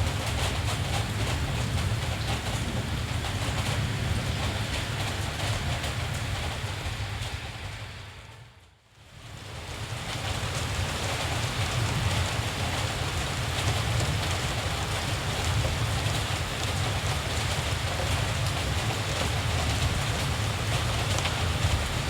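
Steady rain hiss over a low, constant rumble, fading out to near silence about eight seconds in and fading back up over the next two seconds.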